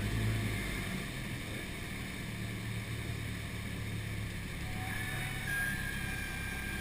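Cessna 172's piston engine droning steadily in the cockpit, with a faint thin steady tone joining about five seconds in.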